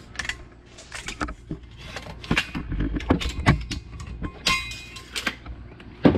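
Steel angle-iron pieces being handled and set down: a series of irregular metal clinks and knocks, with a brief metallic ring about four and a half seconds in and a louder knock near the end.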